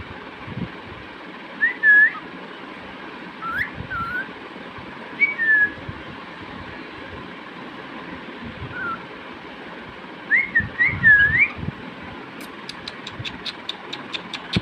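Cockatiel whistling short notes that glide up and down, in several brief phrases, the busiest about ten seconds in, over steady background noise. Near the end comes a quick run of sharp ticks, about four a second.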